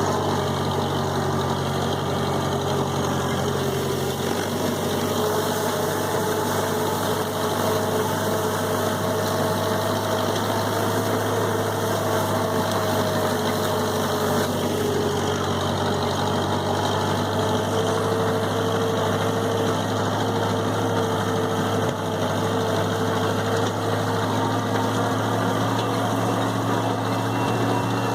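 Massey Ferguson 165 gas tractor engine running steadily while working a hay tedder, its pitch wavering slightly with the load.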